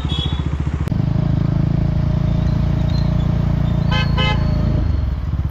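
KTM Duke 390's single-cylinder engine running on the road, pulling at higher revs from about a second in and easing back near the end. A vehicle horn toots twice in quick succession about four seconds in.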